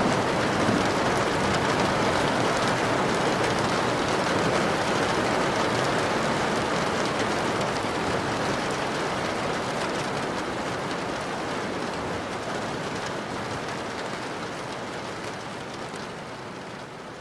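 Steady, even rushing noise like rain, fading out gradually over the last several seconds.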